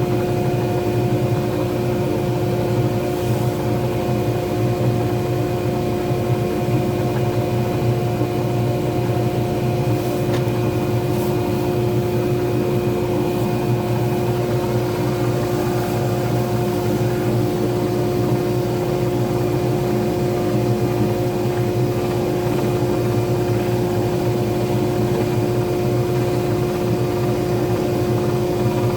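A pen-turning lathe's motor running at a steady speed, a constant hum with a few faint clicks.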